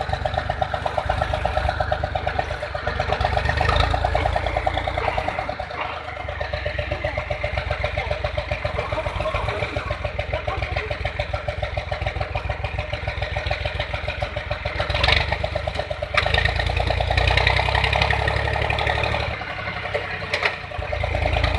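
Diesel tractor engine running with an even chugging beat, growing louder and quieter by turns.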